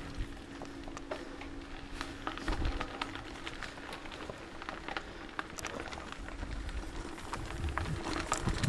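Outdoor ambience: scattered small clicks and ticks over a low, uneven rumble, with a faint steady hum through most of it.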